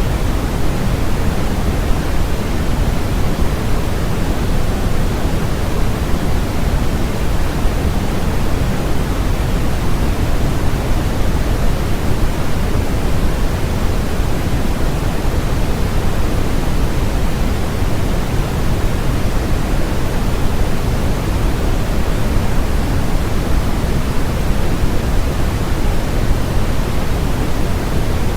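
Constant, unchanging noise track sold as white noise. It is a steady hiss heavier in the lows than true white noise, closer to pink noise.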